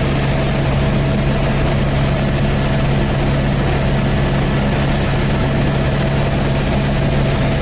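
Helicopter engine and rotor noise heard inside the cabin: a loud, steady drone with a constant hum that holds level throughout.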